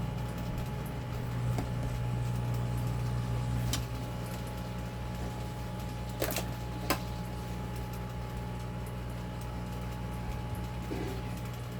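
Hot air rework station's blower running with a steady hum, with a few light clicks of tools against metal a third and a half of the way through.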